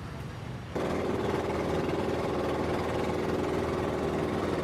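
Boat engine running steadily, its drone cutting in suddenly under a second in and holding an even pitch.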